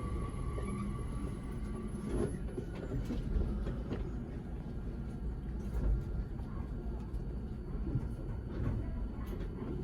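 JR Kyushu 883 series electric train running, heard from inside the car: a steady low rumble with scattered clicks from the track. A steady high tone stops about two seconds in.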